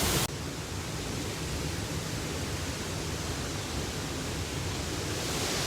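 Steady rushing roar of a waterfall, an even wash of noise with no separate events.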